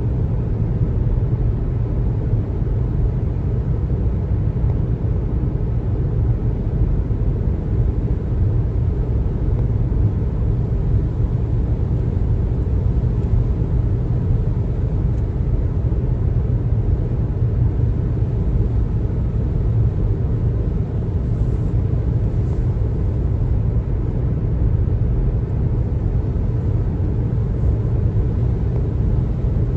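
A car driving steadily on the road: a constant low rumble of tyre and road noise with the engine underneath, unbroken throughout.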